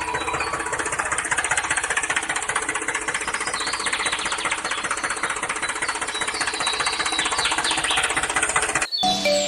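Small electric motor running steadily with a fast, even buzzing rattle, then cutting off abruptly near the end.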